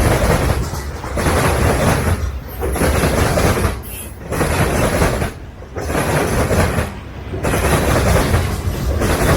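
Freight train rolling past, a loud steady rumble and roar that dips briefly at an even beat about every second and a half.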